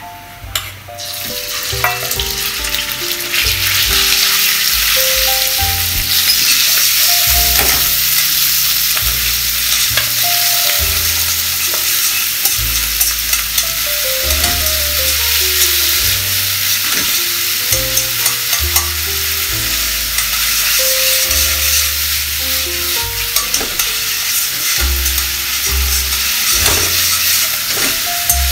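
Diced chicken thigh sizzling in hot olive oil and garlic in a frying pan, the frying starting about a second in as the meat goes in and staying loud and steady while it is turned with tongs.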